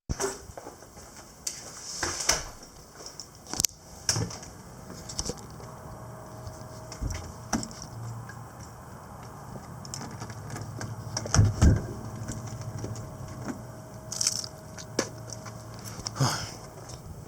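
Handling noises in a car: a run of sharp clicks and knocks, like keys and door or interior fittings being handled, the loudest a pair of knocks near the middle. A low steady hum sets in about four seconds in.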